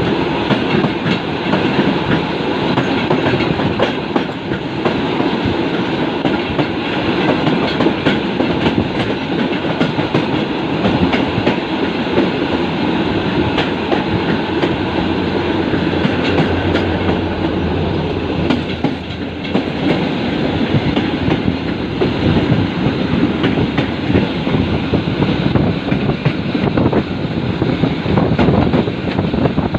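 A suburban passenger train running past close by, a loud steady rumble with the rapid clickety-clack of wheels over rail joints. A low steady hum joins in briefly about halfway through.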